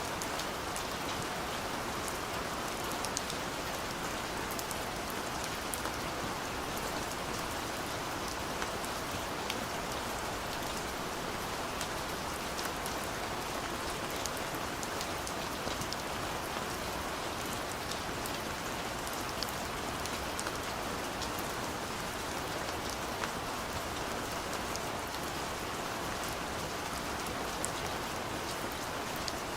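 Steady rain falling, with a constant hiss and many small scattered drop ticks on a surface.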